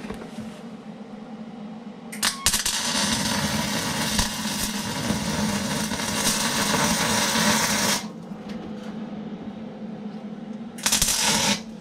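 Arc welding: a short tack about two seconds in, then a steady crackling weld run of about five and a half seconds, and another short burst near the end.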